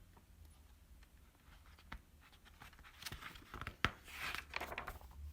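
Paper rustling and a few sharp clicks about halfway through, as a page of a hardcover picture book is turned.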